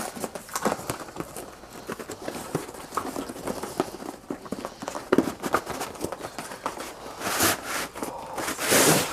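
Cardboard box and wrapping of a set of ceiling fan blades being opened and handled: scattered clicks, taps and rustles, with louder rustling sweeps near the end.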